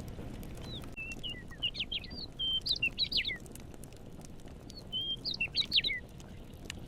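A songbird sings two quick phrases of whistled, sliding notes, over the scattered crackle and pop of a campfire and a steady low background rumble.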